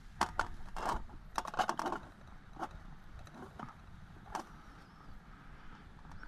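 Metal camping cookware clinking and knocking as a pot is handled on a small camp stove: a quick scatter of clicks and clinks in the first two seconds, then a few single knocks.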